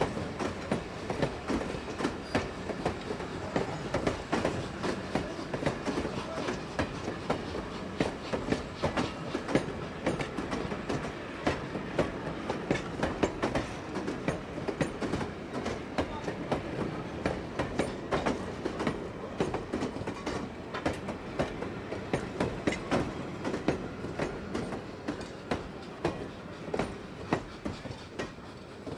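Train wheels clattering over rail joints: a steady clickety-clack of many sharp clicks over a continuous rumble.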